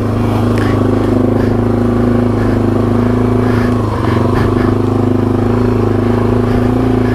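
Yamaha TW200's single-cylinder four-stroke engine running at a steady speed under way on the trail, with a brief dip in pitch about four seconds in.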